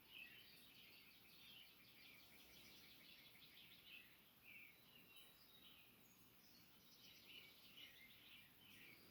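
Faint birdsong: many short chirps and trills from several small birds over a soft background hiss.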